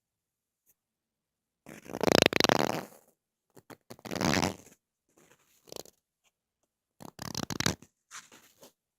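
Ear-cleaning ASMR scratching and crackling on the microphone, in about five irregular bursts. The first, about two seconds in, is the loudest.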